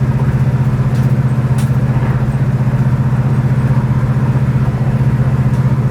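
Chevelle wagon's 427 big-block V8 cruising at highway speed in fourth gear, around 1,900 rpm, heard from inside the car: a steady low engine and exhaust drone with road noise.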